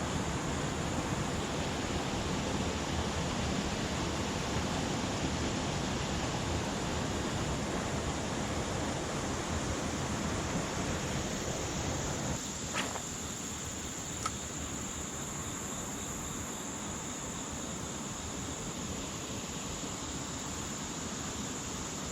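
Steady rush of river water below a dam, with a constant high insect drone over it. Partway through the water noise eases a little, and two sharp clicks are heard a second and a half apart.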